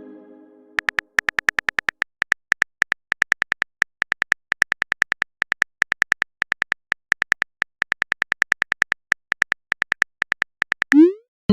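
Phone keyboard typing sound effect: a long run of short, identical clicks, several a second in uneven clusters. A pitched message chime fades away at the start, and a rising blip and a new chime sound right at the end.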